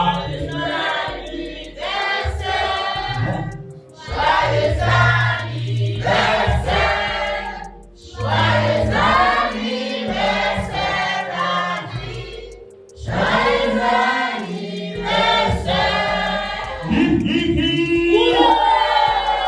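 A group of people singing a birthday song together in chorus, in phrases of a few seconds with short breaks between them; near the end a voice slides upward in pitch.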